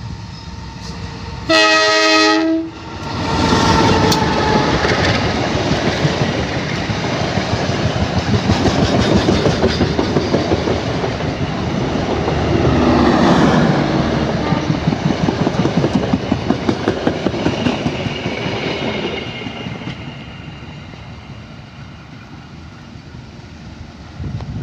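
Diesel locomotive horn sounding one blast of about a second, followed by the train passing close by with a long, rapid, rhythmic clatter of wheels over the rail joints that dies away over the last few seconds.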